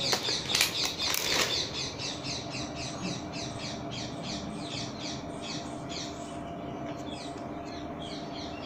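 A small bird chirping rapidly and steadily, about five short high chirps a second. Over it, in the first second and a half, comes a sharp clatter of rulers being picked up and set down.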